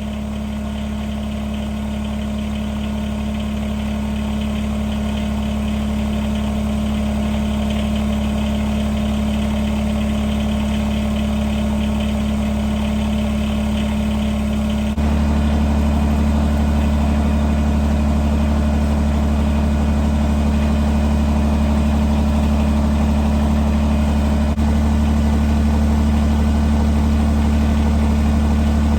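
Compact tractor's diesel engine idling steadily. It gets abruptly louder about halfway through and again a few seconds before the end.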